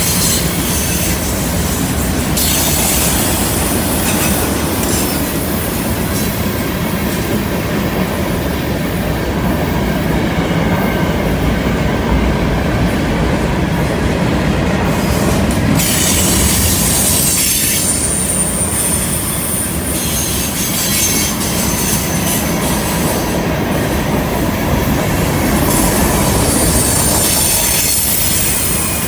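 Freight cars rolling past close by on a curve: a steady rumble of steel wheels on rail, with high-pitched wheel squeal that comes and goes.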